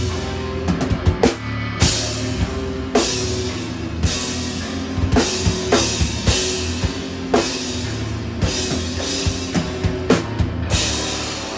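Instrumental rock band playing live: a drum kit with cymbal crashes about once a second over held low notes.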